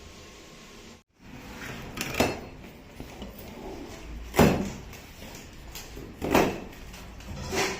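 A steady hiss cuts off about a second in, followed by four dull knocks and bumps about two seconds apart, like things being handled and set down.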